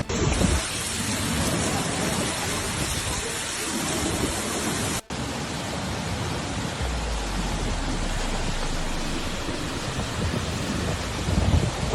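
Steady rushing noise of torrential rain and floodwater, broken by a brief dropout about five seconds in.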